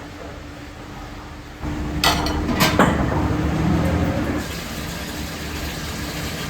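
Water running into a metal pot, with a couple of sharp clinks of pots and pans about two seconds in.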